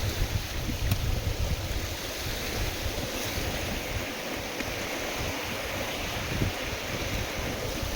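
Wind-driven waves on a lake washing steadily, with gusts of wind buffeting the microphone as a low rumble that eases briefly midway.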